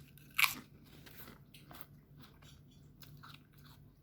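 A loud crunchy bite close to the microphone about half a second in, followed by mouth-close chewing with many small crunches and wet clicks.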